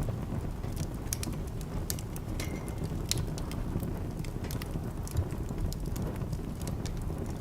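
Wood fire burning in a fireplace: a steady low rumble of flames with irregular sharp crackles and pops. About two and a half seconds in there is a brief thin whistle.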